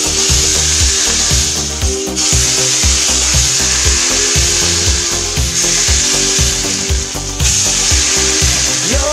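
Hot oil poured over chopped garlic and spices on glass noodles and shredded carrot, sizzling loudly, under background music with a steady beat.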